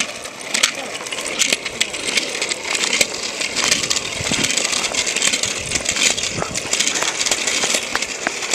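Hurried footsteps and rubbing of a handheld camera being carried on the move: many irregular clicks and knocks over a steady hiss.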